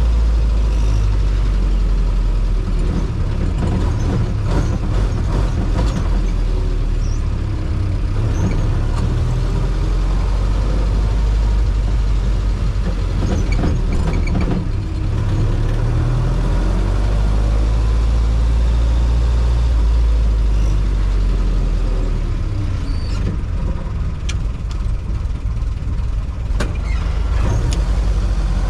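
Jeep CJ-5's engine running under way, a steady low drone whose revs rise and fall now and then. A few short clicks come near the end.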